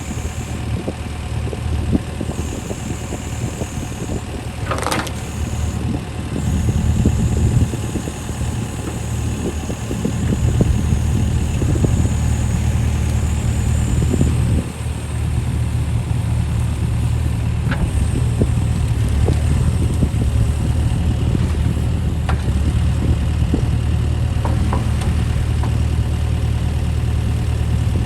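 John Deere 60G mini excavator's diesel engine running steadily, swelling several times as it works under load, with a high whine that comes and goes and scattered knocks.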